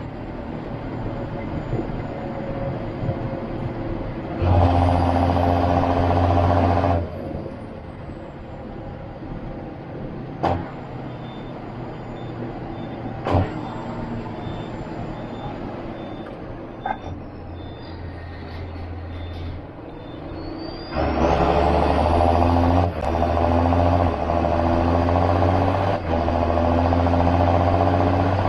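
John Deere 7530 Premium tractor's six-cylinder diesel running while hauling maize silage. It twice pulls hard and louder for several seconds, a high whine rising each time it comes on load; in between it runs more quietly with a few sharp knocks and a faint high beeping repeating.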